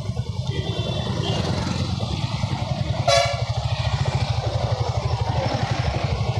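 Motorcycle engine running steadily on the move, with wind noise on the microphone. About three seconds in, a vehicle horn gives one short toot.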